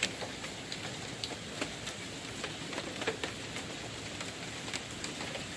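Steady rain falling, with an even hiss and many irregular drips and patters of drops hitting nearby surfaces.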